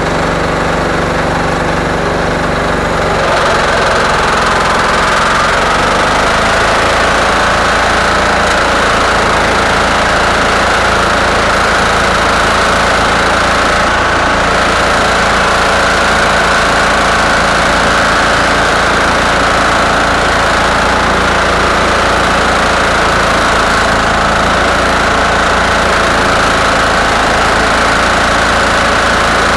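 Diesel-repowered garden tractor engine running steadily. It gets louder about three seconds in and then holds.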